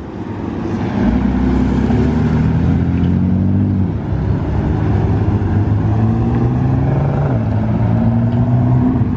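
A car engine pulling away under acceleration, its pitch climbing and then dropping at a gear change about four seconds in and again near seven seconds.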